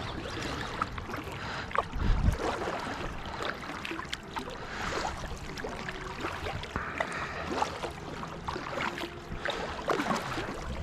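Water lapping around a small boat, with scattered light clicks and knocks against the hull and a low thump about two seconds in.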